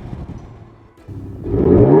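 Ford Raptor's 3.0 twin-turbo V6 through a titanium catback exhaust, dying away to quiet, then revving up again about a second in with a rising note that is loud by the end.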